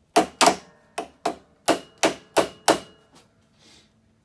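A quick series of sharp knocks on a hard object, about eight in under three seconds, ending about three seconds in. The knocks come during work on a small-engine carburetor that is gummed up with tar.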